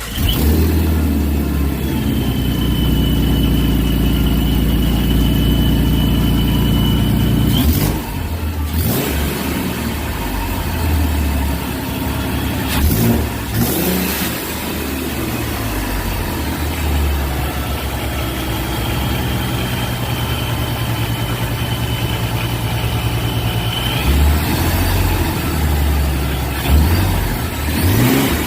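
Supercharged 3.7 L Mustang V6 running with a centrifugal ProCharger P1X, revved up and held twice for several seconds, about two seconds in and again near the twenty-second mark. Each time a high steady supercharger whine rises over the exhaust note, and the engine drops back to idle between. The freshly installed engine runs fine, with only a tiny leak at one header flange.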